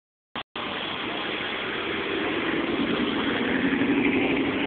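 Car engine running steadily and growing gradually louder over a few seconds.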